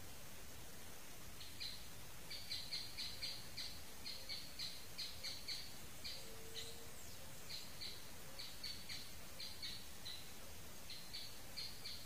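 Rufous hornero calling: runs of sharp, high notes repeated about three or four a second, starting about a second and a half in, with short breaks between the runs.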